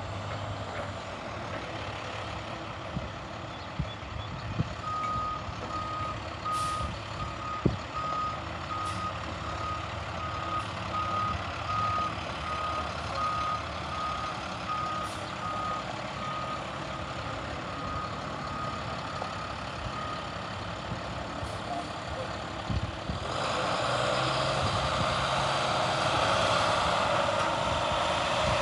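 Heavy diesel utility truck running with a backup alarm beeping at one steady pitch, about one and a half beeps a second; the beeping stops after about fifteen seconds. Near the end a louder steady rushing noise sets in over the engine.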